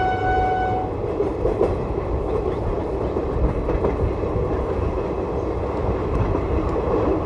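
Passenger train coaches running at speed, heard from the open doorway: a steady rumble of wheels on the rails with clatter over the rail joints and rushing air. A locomotive horn holding one steady note stops about a second in.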